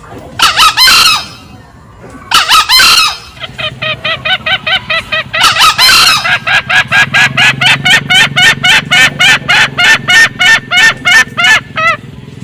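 Green junglefowl calling: two short crows about a second apart, then a long fast cackling run of short notes, about four or five a second, which stops just before the end. The junglefowl's cackle used as a lure call.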